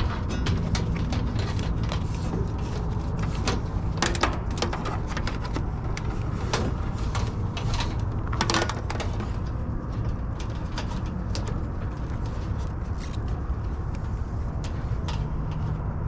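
Scattered clicks and light knocks of hand work on the unit's parts and wiring, with one short scrape about eight seconds in, over a steady low rumble.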